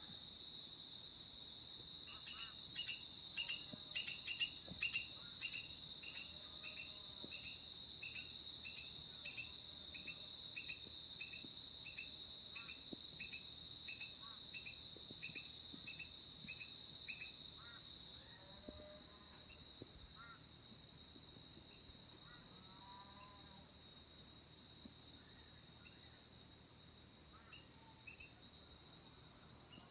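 Insects keep up a steady, high-pitched trill. Over it, a bird calls a long run of evenly repeated notes, about one and a half a second, that stops about halfway through. Softer chirps follow near the end.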